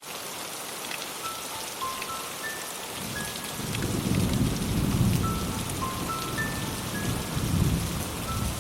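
Steady rain with a low rumble of thunder that builds from about three and a half seconds in. A sparse melody of short high notes plays over it.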